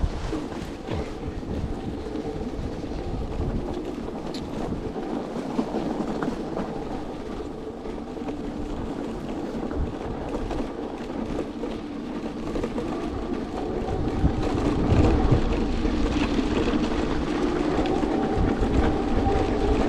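Electric skateboard riding through snow: a steady motor hum over the rumble of the wheels and wind buffeting the microphone, growing louder about fourteen seconds in.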